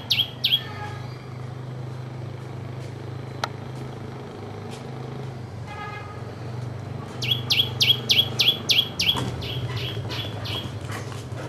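A small bird calling in fast runs of sharp, high chirps, each one dropping steeply in pitch, about four a second. A short run comes right at the start and a longer one starts about seven seconds in, over a steady low hum.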